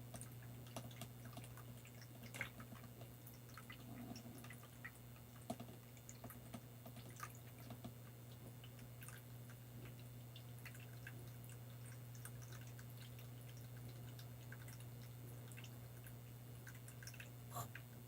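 Faint, irregular water drips and small clicks over a steady low hum, with a slightly louder drop about two and a half seconds in, another about five and a half seconds in, and one near the end.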